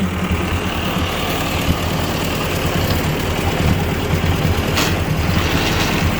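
1957 Ford 841 tractor's four-cylinder gasoline engine running steadily on a replacement carburetor, with a single short click about five seconds in.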